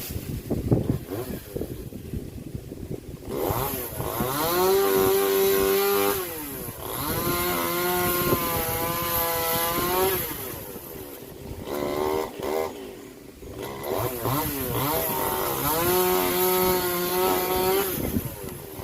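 Chainsaw cutting a tree, revving in four runs of a few seconds each with its pitch rising and falling, after a few seconds of wind buffeting the microphone.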